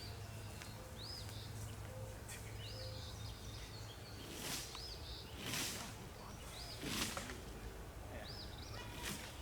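A bird repeating a short chirp every second or two over a steady low hum, with a few brief rustling noises in the middle and near the end.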